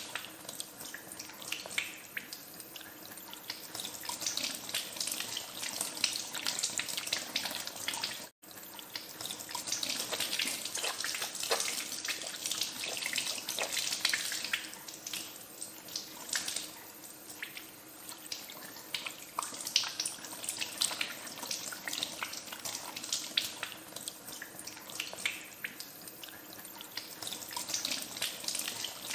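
Tap water running into a sink and splashing as hands are washed under it. The sound breaks off for an instant about eight seconds in, then goes on.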